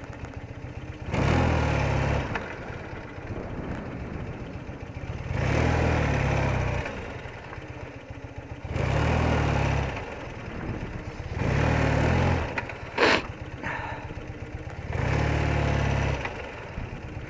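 BMW R80RT's air-cooled boxer twin running at low speed, with five short bursts of throttle about every three to four seconds as the bike pulls away from near-stops. There is a single sharp click about thirteen seconds in.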